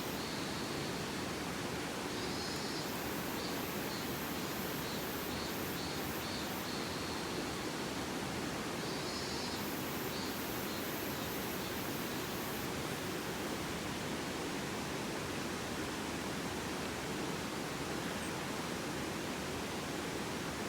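Mountain stream flowing: a steady rush of water that does not change.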